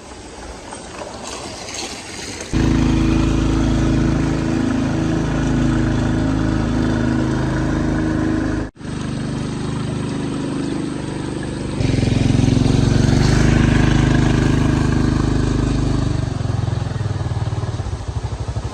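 Motorcycle engine running steadily, starting abruptly a couple of seconds in, with a brief cut-out in the middle. Near the end it settles into a slower, pulsing idle.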